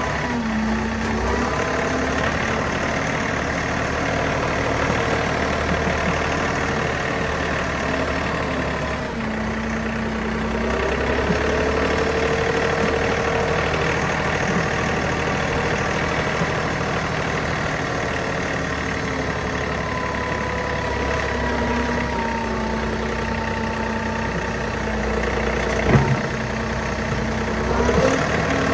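John Deere 3039R compact tractor's diesel engine running steadily under work, with a whine that shifts in pitch as it drives. There is a single short knock near the end.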